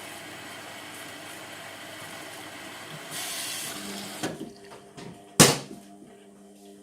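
Water rushing into an Indesit MTWC71252WUK washing machine as it fills at the start of its sport cycle, cutting off about four seconds in. A few clicks follow, then one sharp, loud click, and a steady low hum remains.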